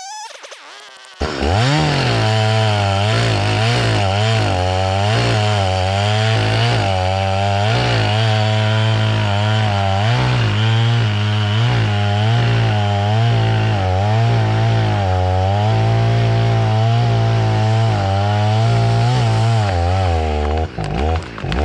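Gas chainsaw cutting into a tree trunk for a felling cut. It starts suddenly about a second in, and its engine pitch repeatedly dips under load and rises again before it drops off near the end.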